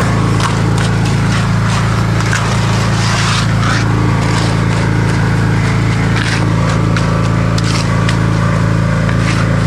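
Small engine of a concrete power buggy running steadily, with repeated short scrapes and taps of hand tools working wet concrete.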